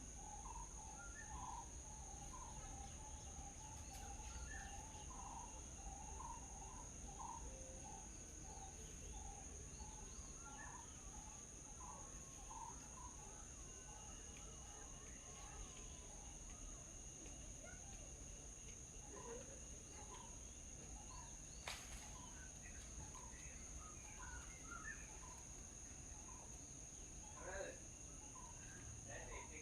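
Small birds chirping and calling over a steady high-pitched insect drone. A quick run of repeated short call notes fills the first several seconds, then scattered chirps follow. One sharp click comes about two-thirds of the way through.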